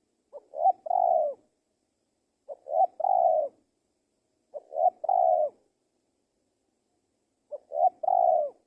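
Male spotted dove cooing. It gives four calls, every two to three seconds, each made of two short notes and then a longer coo.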